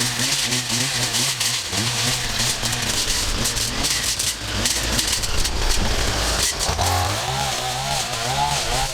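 Small petrol engines of yard-clearing equipment running, their pitch wavering up and down, over a steady hiss; the wavering grows stronger near the end.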